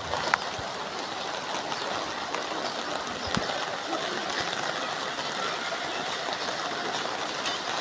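Steady rush of water from monsoon rain and waterlogging, with a couple of faint clicks.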